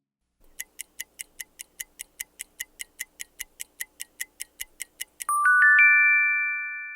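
Clock-like ticking, about five ticks a second, that stops about five seconds in as a rising four-note chime rings out and slowly fades, like a timer running out.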